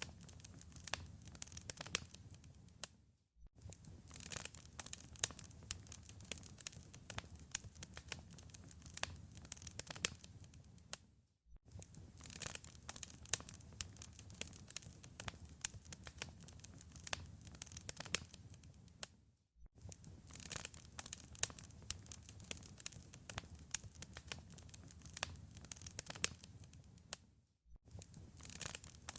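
Wood fire crackling in a fireplace: many sharp pops and snaps over a low rumble of burning. The sound drops out briefly about every eight seconds.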